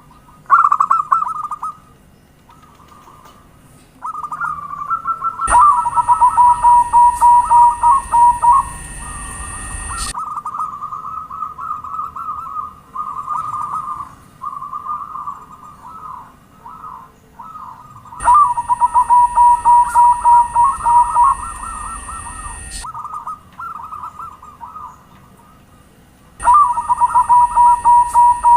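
Zebra doves (perkutut) cooing in long phrases of rapid, trilled notes, one phrase after another, used as a lure call. In three stretches the song is louder, with a steady high hiss and a low hum under it.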